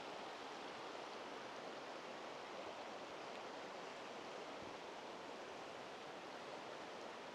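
Steady, even rushing of flowing water from an alpine stream, with no distinct events.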